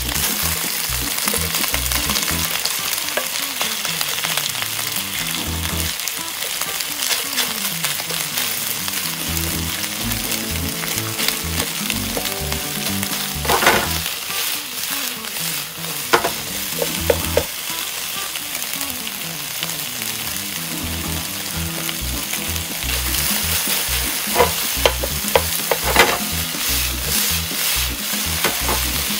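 Beef strips sizzling in a frying pan as they are stir-fried, with sliced bitter melon in the pan by the middle. A wooden spatula knocks against the pan several times.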